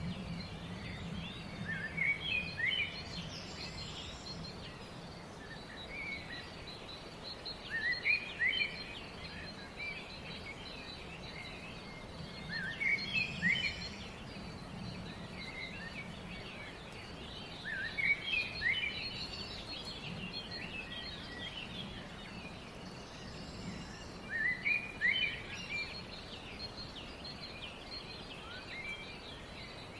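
Forest birds singing: a bird repeats a short burst of quick rising chirps about every five seconds, over a continuous faint high-pitched ticking chatter and a low steady background hum.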